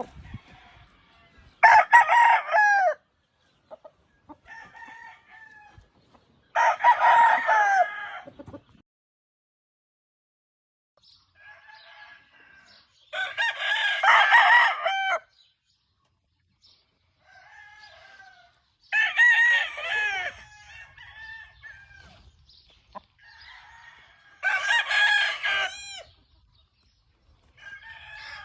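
Roosters crowing: five loud crows from a near bird about every five to six seconds, with fainter crows from other roosters in between.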